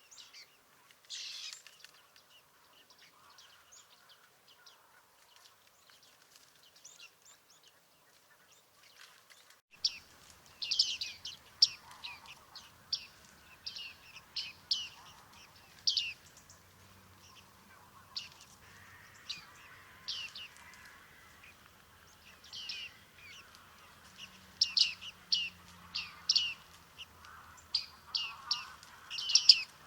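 Bearded tits calling: short, high, nasal calls in quick runs, sparse at first and much more frequent from about a third of the way in.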